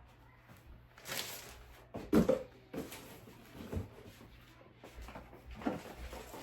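Several irregular knocks and clatters of household things being handled and set down, the loudest about two seconds in.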